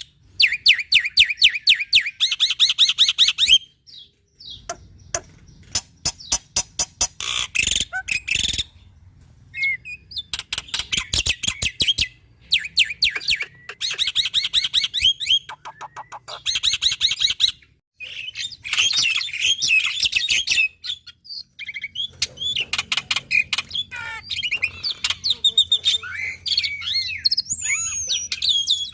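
Black-winged myna (jalak putih) singing loudly: runs of rapid harsh chattering notes in bursts, giving way in the second half to a varied song of whistled notes gliding up and down.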